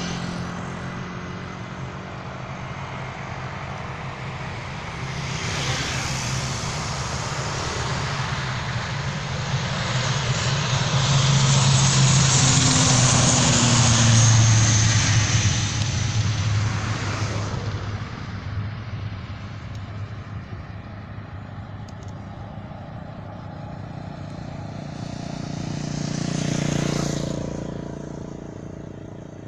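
Propeller aircraft engine noise that builds to a peak about twelve to fifteen seconds in, then fades, with another brief swell near the end.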